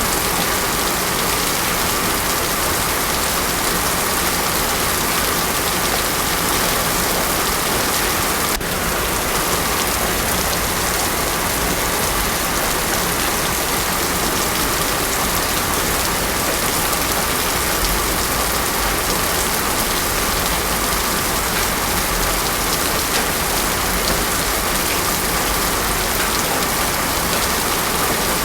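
Heavy rain pouring steadily on a paved road, with no thunder. There is a single brief click about nine seconds in.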